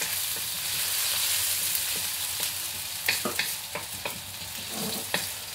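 Chopped onion sizzling in hot oil in a steel wok, stirred with a wooden spatula. In the second half the spatula knocks and scrapes against the pan several times over the steady sizzle.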